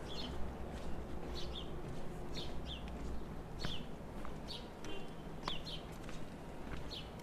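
Small birds chirping repeatedly, short downward-sliding chirps coming about once or twice a second, over a steady low rumble.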